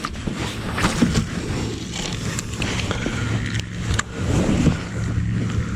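Fishing reel winding in a crankbait: a steady mechanical whirr with scattered light clicks.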